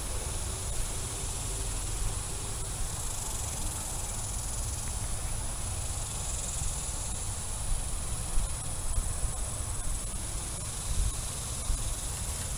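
Outdoor ambience: a steady, high-pitched insect drone with low wind rumble on the microphone.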